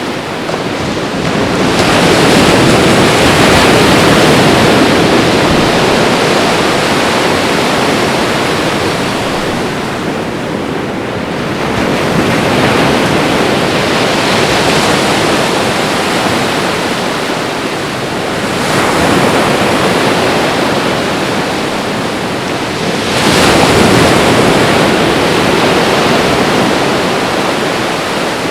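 Ocean waves breaking and washing on a shore, a continuous rushing surf that swells and eases in slow surges roughly every five to ten seconds.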